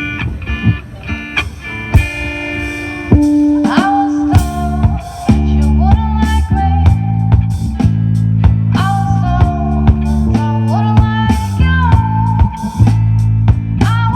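Live rock band playing: a guitar-led passage that fills out about three seconds in with bass and drums, under a lead melody with bending, gliding notes.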